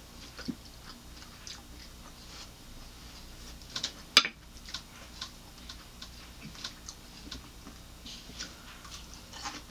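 Close-up chewing of cucumber sticks: scattered small crunches and mouth clicks. About four seconds in there is one sharp clack as a small dip cup is set down on the plate.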